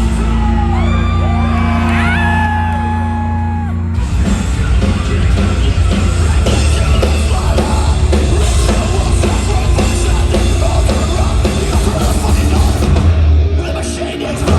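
Post-hardcore band playing live: a held low drone with the crowd yelling and whooping over it, then about four seconds in the full band comes in loud and heavy with pounding drums.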